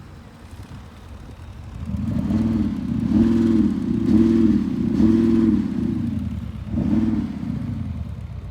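Audi SQ7's V8 engine and exhaust idling, then revved in five short blips, each rising and falling in pitch, the last about seven seconds in.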